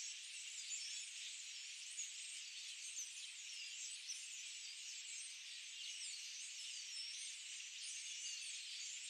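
Rainforest ambience: a dense chorus of high-pitched chirping calls, a steady wash with many quick rising and falling chirps over it.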